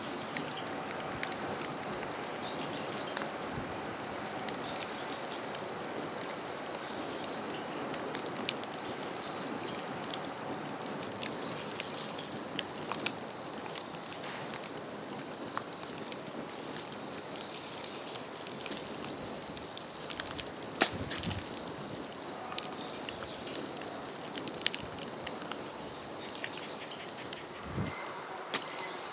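A steady, high insect trill runs on without a break over the crackle of a burning bamboo fire, with scattered small pops and one sharp pop about two-thirds of the way through.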